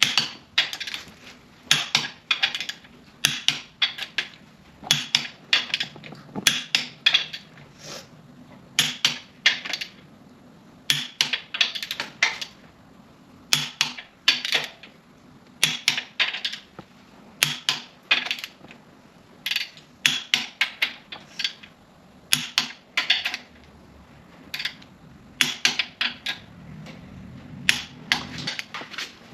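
Click-type torque wrench ratcheting in quick runs of sharp clicks with short pauses between, as bolts on a 5.9 Cummins block are pulled up to 100 foot-pounds.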